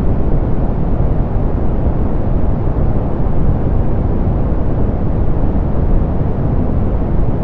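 Steady, softened pink noise: an even, muffled hiss weighted toward the low end, with little treble and no changes.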